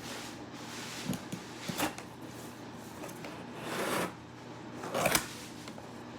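Box and packaging being handled: soft rustling with a few light knocks and clicks, the loudest just after five seconds in.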